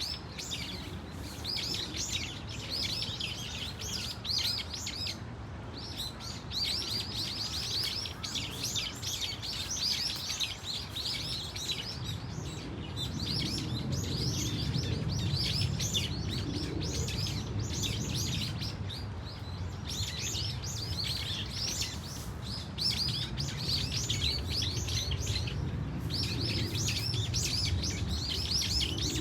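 A flock of brown-eared bulbuls calling: many shrill, overlapping calls in quick succession, with a couple of brief lulls, over a low background rumble.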